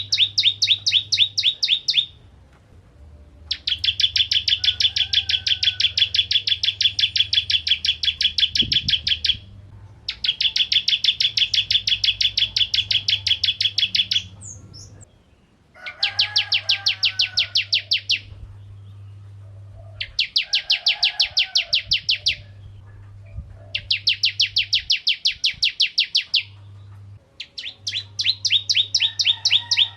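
Ciblek kristal, a prinia songbird, singing in long rapid trills of the same sharp note repeated many times a second, seven bursts separated by short pauses.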